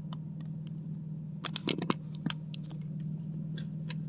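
A steady low hum with a cluster of small sharp clicks and scratchy handling noises about a second and a half in.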